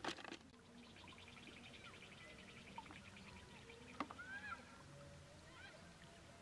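Faint bird calls over quiet flowing water: a rapid high trill lasting about two seconds, then short whistled chirps about four seconds in. A couple of sharp taps, one at the start and one at about four seconds, are the loudest sounds.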